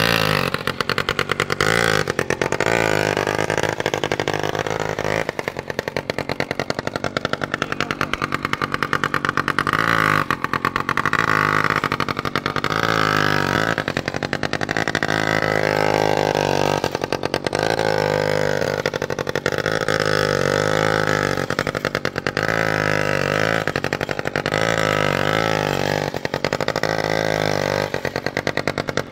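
Motorcycle engine running, its pitch rising and falling again and again as it revs.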